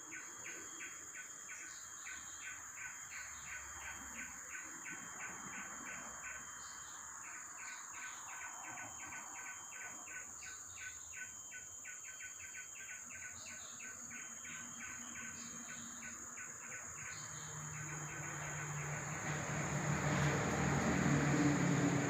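Outdoor insect and bird chorus: a steady high insect whine with a fast, even series of short chirps over it. About 17 seconds in the chirps stop, and a low engine hum with a rushing noise grows louder toward the end.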